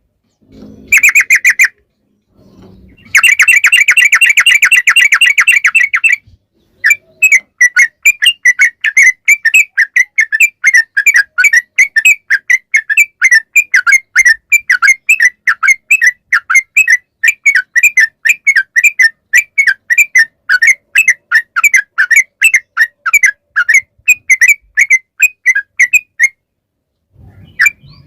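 Yellow-vented bulbul song: first a short burst and then a dense, rapid trill lasting about three seconds. After a brief pause comes a long run of quick, repeated chirping notes, about four to five a second, going on for nearly twenty seconds before stopping shortly before the end.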